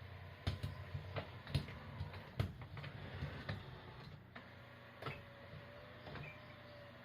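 Irregular light knocks and clicks, a dozen or so, bunched in the first four seconds and sparser after, over a faint steady hum.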